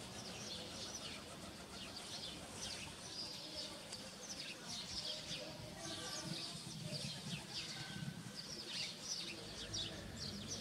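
Small birds chirping in a steady stream of short, high calls, many overlapping.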